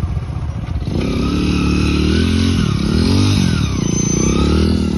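Motorcycle engine revving, quieter for the first second, then its pitch rising and falling several times.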